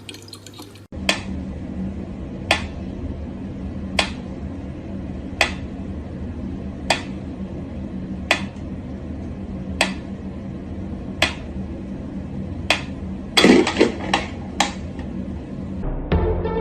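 Sharp knocks on something hard, evenly spaced about every second and a half, over a low steady hum, with a quick cluster of knocks near the end.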